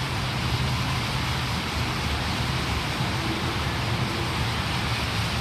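Steady low rumble and hiss of a motor vehicle running, without any clear change.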